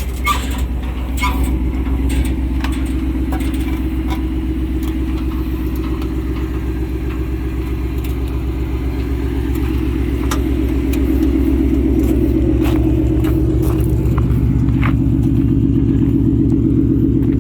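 Car engine idling steadily as the car creeps slowly backward under guidance. It gets a little louder about ten seconds in, and there are a few light clicks.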